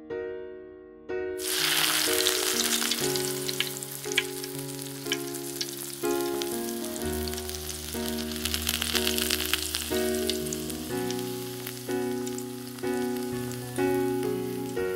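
Beef rolls wrapped around lemongrass stalks hit hot oil in a small pot and sizzle and crackle as they fry. The sizzling starts suddenly about a second in, under piano music.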